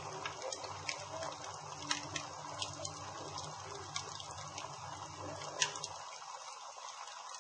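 Campfire burning, the wood crackling with irregular sharp pops over a steady hiss. A low hum underneath cuts out about six seconds in.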